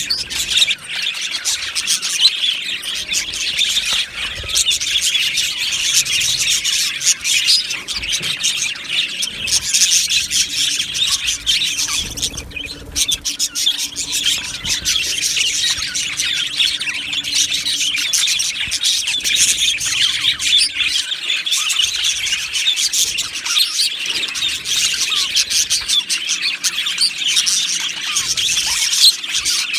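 A flock of budgerigars chattering and chirping together, a dense, continuous warbling of many birds at once.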